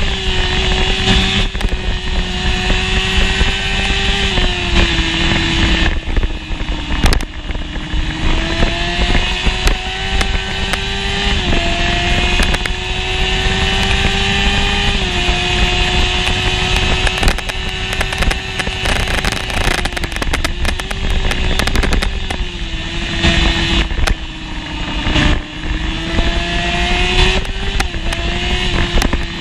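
1988 Honda CBR600F1's inline-four engine at racing revs. Its pitch climbs and then drops sharply at each gear change, several times, easing down in places.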